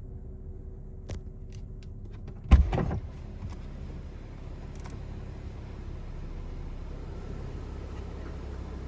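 BMW 640i Gran Turismo's turbocharged straight-six running steadily, still warming up after a cold start, with its oil temperature low. A few light clicks, then a single loud thump about two and a half seconds in.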